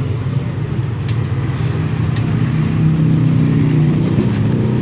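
A running engine: a steady, loud low drone that gets a little stronger about three seconds in, with a few faint clicks.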